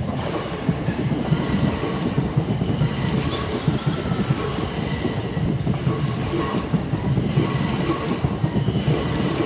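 A Class 387 electric multiple unit passing close by, a steady rumble and rattle of steel wheels on the rails with rapid clicking over the track, and faint steady tones above it.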